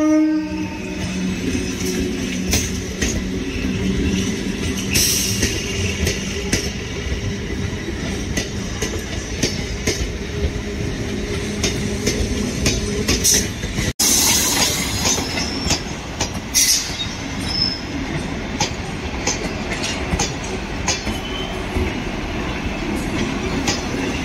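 Indian Railways electric local train rolling past close by, its wheels clattering over the rail joints in a run of sharp clicks, with a low steady hum in the first half. The sound breaks off abruptly about 14 seconds in and resumes with the same rolling clatter and a brief high wheel squeal.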